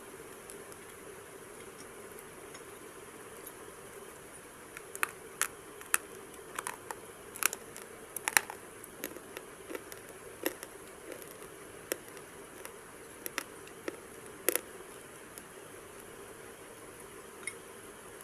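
Irregular sharp crunches and crackles, about fifteen of them, scattered through the middle of the stretch over a steady faint hiss.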